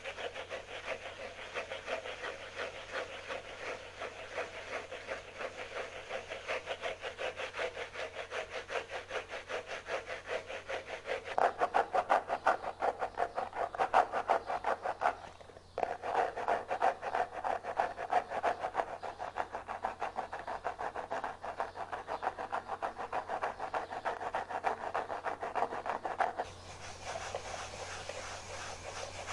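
Fast, rhythmic scratching and rubbing on a hard surface for ASMR, several quick strokes a second. It breaks off briefly about halfway through and turns thinner and hissier near the end.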